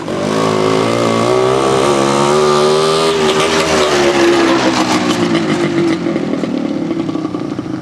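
Small two-stroke single-cylinder motorcycle engine (a Minsk 125) running at speed under way. Its pitch holds fairly steady for the first few seconds, then slowly eases down.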